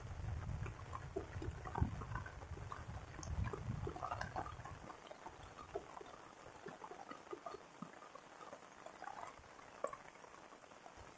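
Light rain: scattered drops ticking and pattering irregularly, over a low rumble that stops about five seconds in.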